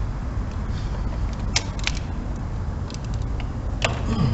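A few short, sharp clicks of hand tools, a socket extension being fitted to a ratchet, over a steady low background hum.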